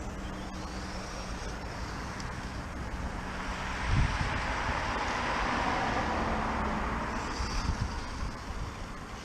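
RC car passing close by: a low steady hum, a knock about four seconds in, then a rushing noise that swells and fades away as it goes past.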